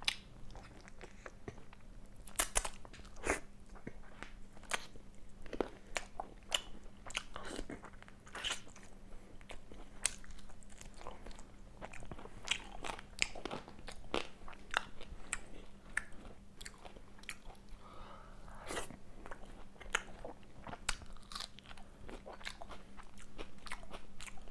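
Close-miked chewing of chicken kosha (Bengali braised chicken curry) with luchi (puffed fried bread): irregular wet mouth clicks and smacks, a few a second.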